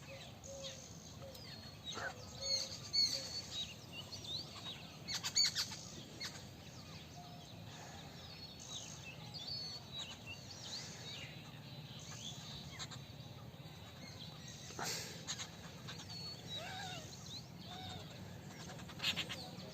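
Several birds chirping, with many short high chirps and quick whistled notes overlapping, over a faint steady low hum.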